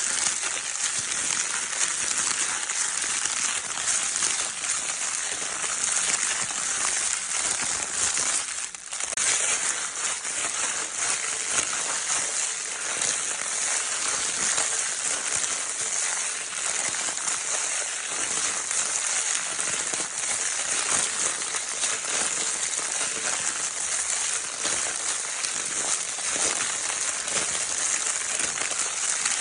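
Baby crinkle-paper toy being crinkled continuously, a dense crackling rustle with a brief lull about nine seconds in.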